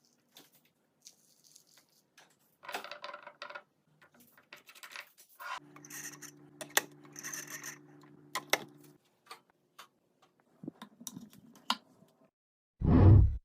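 Containers and packaging being handled while a fridge is restocked: scattered clicks, light knocks and rustles. A steady low hum runs for about three seconds in the middle, and a loud low thump comes at the very end.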